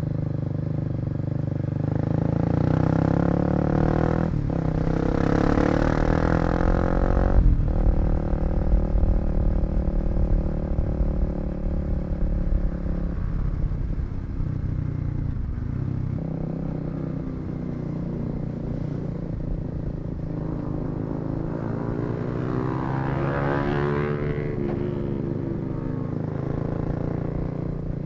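Kawasaki KLX250 single-cylinder four-stroke engine running while the bike rides through traffic, its note rising and dropping sharply twice in the first eight seconds, then rising and falling again about twenty seconds in, over low road and wind rumble.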